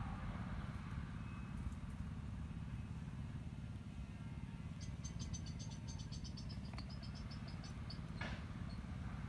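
A steady low rumble, with a bird's fast, high trill starting about five seconds in that drops slightly in pitch over some three seconds, then a short scratchy sound near the end.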